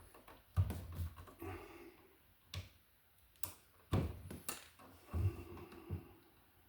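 Hand tools and wire being worked at a wall receptacle: a string of irregular sharp clicks and light knocks with some rustling between them.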